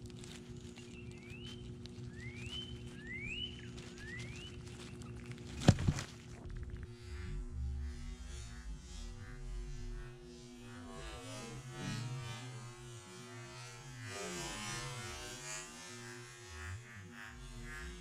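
A bird gives four short rising calls in quick succession, followed by a single sharp knock about six seconds in. After that a low, wavering drone takes over.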